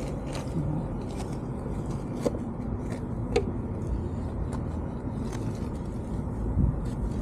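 Wheel brush scrubbing a car wheel: scattered light scrapes and knocks over a steady low rumble.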